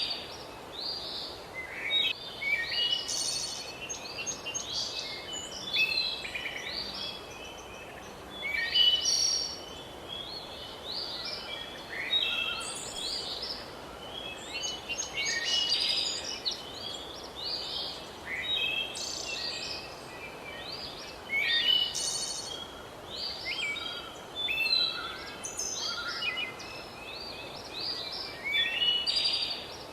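Several birds singing, short chirping phrases overlapping and following one another every few seconds, over a steady background hiss.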